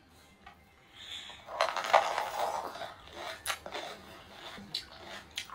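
Raw red bell pepper being crunched and chewed close to the microphone: a loud crisp chewing stretch begins about a second and a half in, then a few sharp separate crunches.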